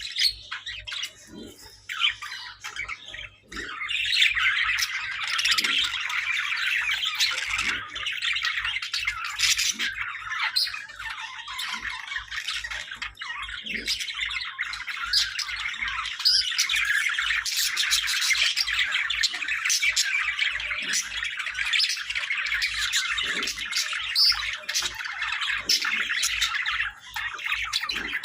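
Hagoromo budgerigars chattering and warbling in a busy stream of squawks and chirps. It is sparse at first, then turns continuous from about four seconds in.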